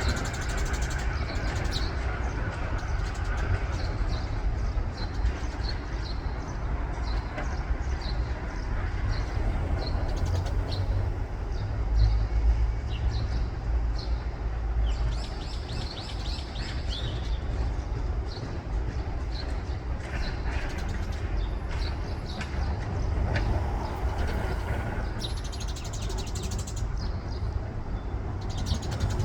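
Small birds chirping in short, repeated high calls, over a steady low rumble.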